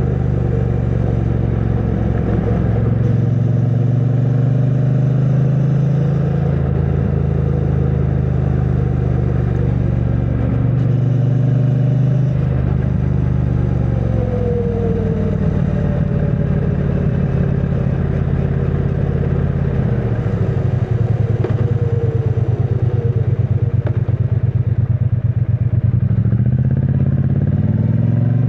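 A 2022 Triumph Bonneville T100's 900 cc parallel-twin engine running through its stock exhaust while riding. The engine note changes pitch several times: it falls off about halfway through, drops to a low pulsing note around two-thirds of the way in, and climbs again near the end as the bike accelerates.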